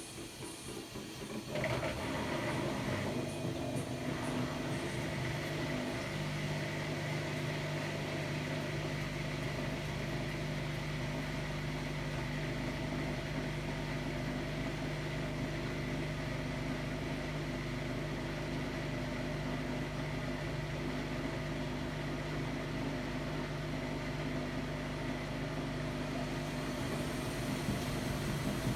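Hotpoint-Ariston Aqualtis AQD972F 697 washer-dryer with a brushless inverter motor, running steadily. It comes in about a second and a half in, as an even machine hum with a few steady tones over a noisy whir.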